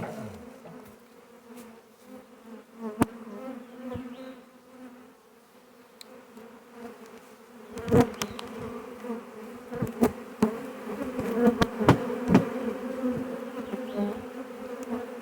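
Honey bee swarm buzzing close by, a steady hum that grows louder about eight seconds in, with scattered sharp clicks and knocks over it.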